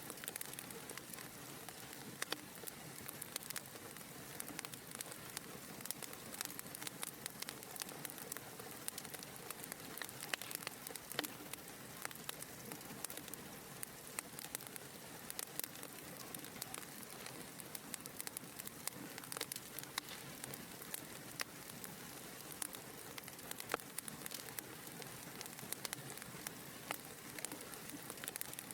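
Wood fire crackling in a fireplace: a steady soft hiss with many small, irregular pops and snaps.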